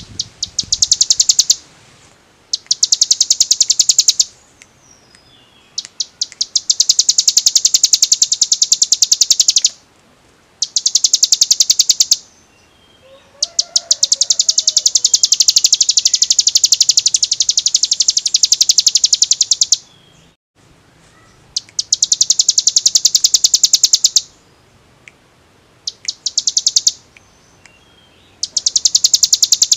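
Ciblek gunung (a prinia) singing its fast, drill-like 'ngebren' trill: a high, rapid string of repeated notes in bursts of one to six seconds, with short pauses between.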